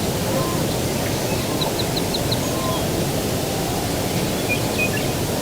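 Steady low rushing of distant ocean surf and breeze, with a small bird giving a quick run of five short high chirps about two seconds in and a few more faint calls near the end.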